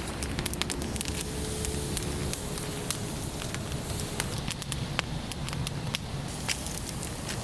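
Wood and charcoal fire crackling in a fire pit, with irregular sharp pops over a low rumble.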